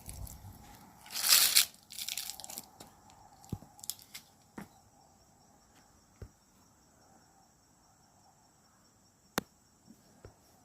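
Footsteps crunching on the woodland floor, loudest about a second in, then fading to a few single clicks and snaps as the walker stops. A steady high-pitched drone of insects runs underneath.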